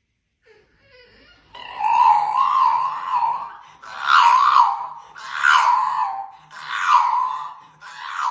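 A dog howling: five long, wavering howls, the first nearly two seconds long and the rest following about every second and a half.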